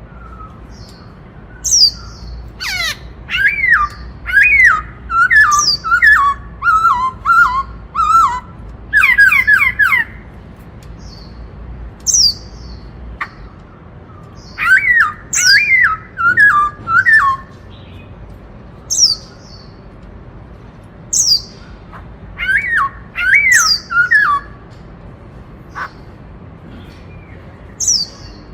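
Black-throated laughingthrush singing loud phrases of clear whistled notes, each phrase opening with high downward-sweeping notes and running into quick warbled notes lower down. The phrases come in bouts with short pauses between them, busiest in the first ten seconds.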